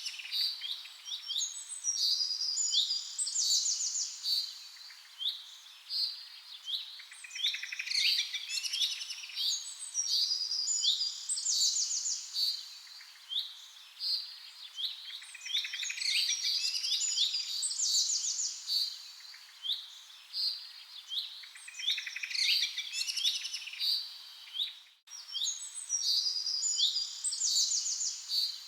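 Songbirds chirping and trilling, with clusters of high, quick notes and rapid trills that come back in a near-identical pattern about every seven seconds. There is a very short gap in the sound near the end.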